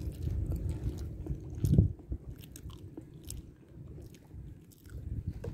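Close-miked chewing and mouth sounds of people eating bananas, with scattered soft clicks and a louder bump about two seconds in.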